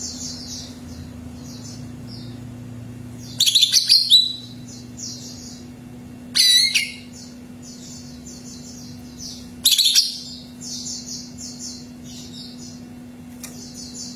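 Cucak ijo (greater green leafbird) singing: rapid high twittering throughout, broken by three loud bursts of song about a third, half and two-thirds of the way through. A steady low hum runs underneath.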